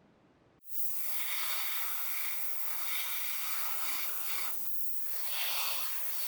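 Spray paint hissing from a nozzle, starting abruptly about half a second in, stopping briefly near the middle, then continuing.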